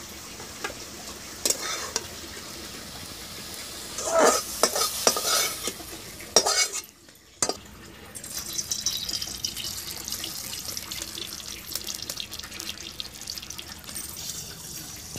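Spatula stirring and scraping cabbage and potato in a sizzling kadai, with scattered knocks, the loudest a cluster around four to five seconds in. After a short break about seven seconds in, oil sizzles and crackles steadily as it heats in the emptied kadai.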